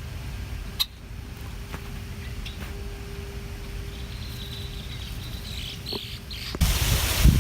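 Outdoor lakeside ambience with a few short bird chirps and a faint high held insect-like tone over a low background rumble. About six and a half seconds in, it switches suddenly to loud wind buffeting the microphone.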